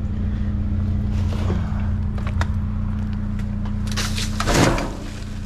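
Vehicle engine idling steadily under scattered clicks and knocks of junk being handled in a dumpster, with a louder scraping rush about four seconds in.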